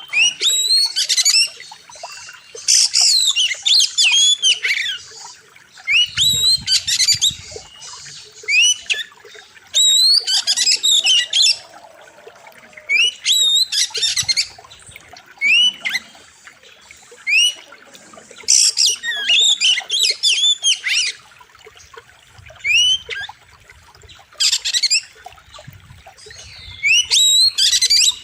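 Oriental magpie-robin singing loudly in repeated short bursts of sharp, rapidly rising and falling whistles and chirps. Each burst lasts about one to two seconds, with brief pauses between.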